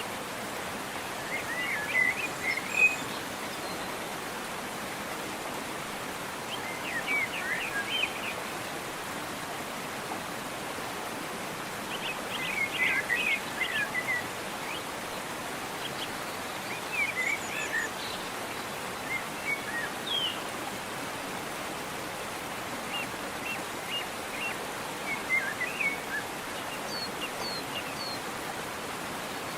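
Steady rush of a waterfall, with songbirds singing short chirping phrases over it every few seconds.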